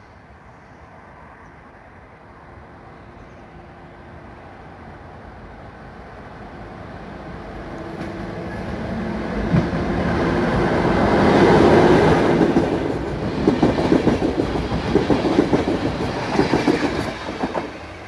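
Electric locomotive-hauled passenger train approaching and passing close by, growing steadily louder to a peak, then the rhythmic clickety-clack of the coaches' wheels over rail joints as the train rolls past. The sound drops away suddenly near the end.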